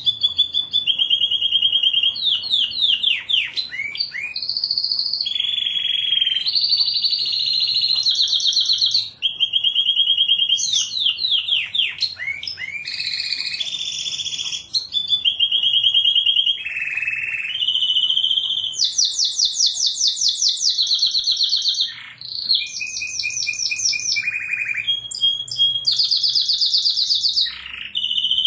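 Domestic canary singing a long, unbroken song: fast trills and rolls of quickly repeated high notes, changing to a new phrase every second or two, with a few quick sweeping notes in between.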